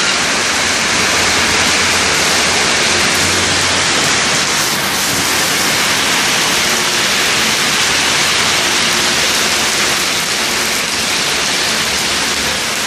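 Heavy rain falling: a steady, loud hiss of downpour.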